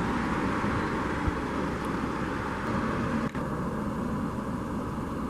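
Steady rushing noise of a vehicle running, with a brief dip a little over three seconds in.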